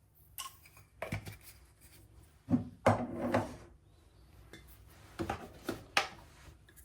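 Dishes and utensils being handled on a kitchen counter: a series of knocks and clatters, the loudest a few seconds in.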